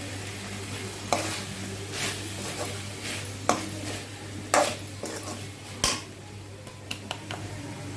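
Spatula stirring chicken pepper fry in a kadai, with about six sharp clinks and scrapes against the pan over a low sizzle, as the ground pepper, fennel and cumin powder is mixed in.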